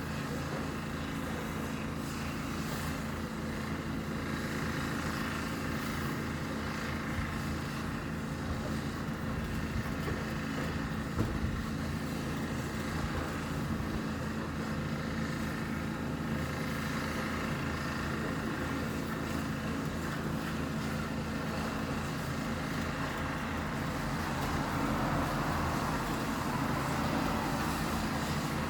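Steady low engine drone, growing a little louder near the end.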